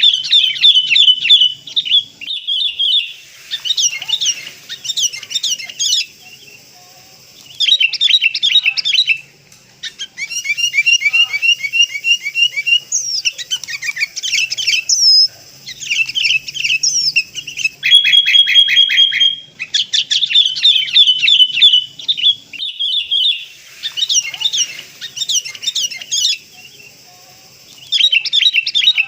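Sooty-headed bulbuls calling: repeated bursts of fast, high chattering notes, each lasting a second or two with short pauses between, some bursts overlapping. The recording is a lure track meant to draw in wild bulbuls.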